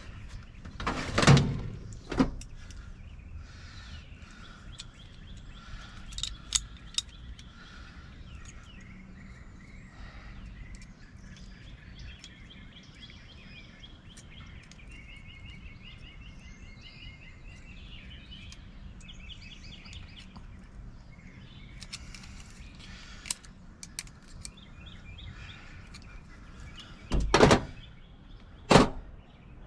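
Knocks and clunks from a Baldwin mortise lock being worked back into a door: a few loud ones near the start, a couple more around six seconds in, and two near the end. Birds chirp in the background in between.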